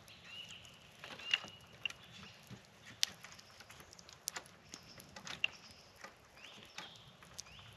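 Quiet woodland ambience: faint, high bird chirps and whistles, with scattered sharp clicks and snaps, about one a second.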